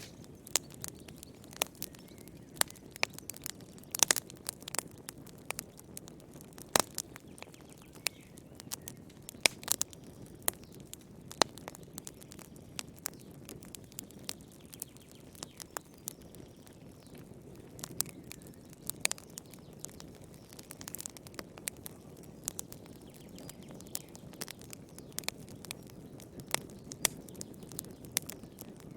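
Fire in a fireplace crackling: irregular sharp pops and snaps, some loud, over a low steady rustle of burning.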